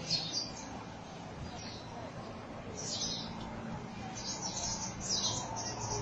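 A flock of small birds chirping in short, high calls from a tree, more densely for a moment about two-thirds of the way in, over a steady low background hum.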